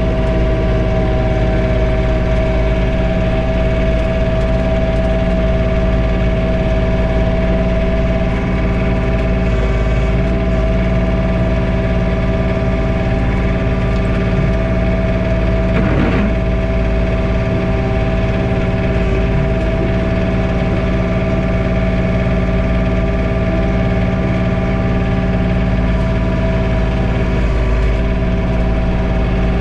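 John Deere 3046R compact tractor's three-cylinder diesel running steadily at raised PTO working speed and driving a snowblower, heard from inside the closed cab, with a constant whine. A brief sliding tone comes about halfway through.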